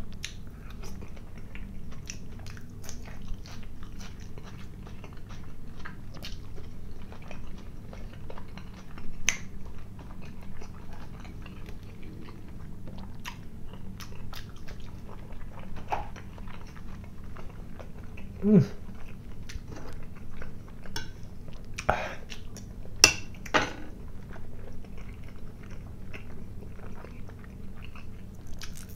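A person chewing and biting food close to the microphone: a continuous run of wet mouth clicks and crackles, with a few sharper, louder clicks about three-quarters of the way in and a brief low throat sound a little before them.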